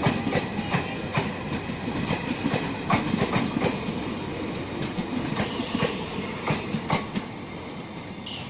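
Train wheels clattering over rail joints, a few sharp clicks a second over a steady rumble, easing slightly near the end.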